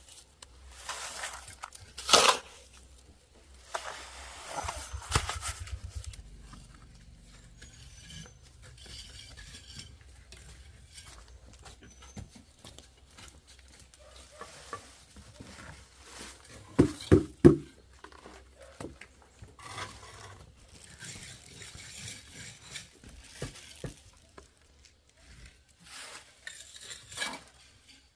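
Hard objects clattering and knocking at irregular intervals, with scraping between: one sharp knock about two seconds in and a cluster of three loud knocks near the middle.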